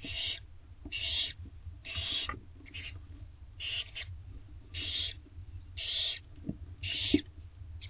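Barn owl giving harsh hissing calls, about one a second, eight in a row, with a couple of brief thin chirps between them.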